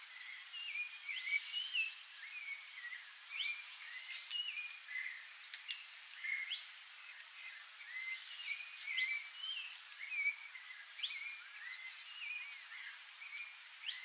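Songbirds singing: a steady run of short whistled notes, some stepped and some quickly rising, overlapping as if from more than one bird.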